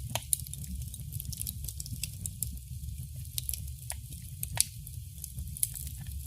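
Wood fire burning in a fireplace: a steady low rumble of the flames with irregular sharp crackles and pops from the burning wood, one pop louder than the rest a little past the middle.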